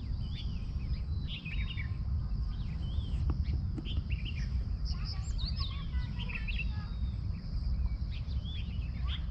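Several small birds chirping and twittering in many short, quick calls, over a steady low rumble.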